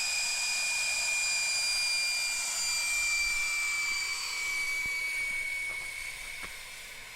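Air rushing out of a Jeep LJ tire being aired down: a high whistle over a hiss that slowly falls in pitch and fades in the last few seconds as the pressure drops. The whistle is, by the driver's own rule, the sign the tire is down to around 12 psi.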